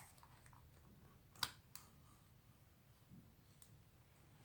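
Near silence with two faint clicks close together about a second and a half in, from the umbrella's frame and shaft parts being handled.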